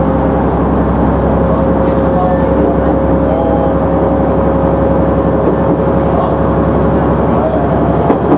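KiHa 100 diesel railcar running along the line, its diesel engine and wheels on the rails making a steady drone with a constant whine that drops away near the end.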